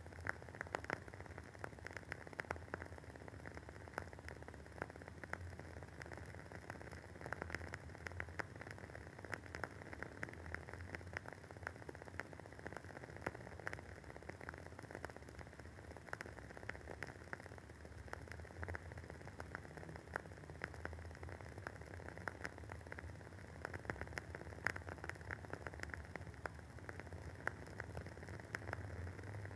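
Wooden wick of a WoodWick candle burning, with a steady stream of quick, irregular soft crackles and pops over a faint hiss.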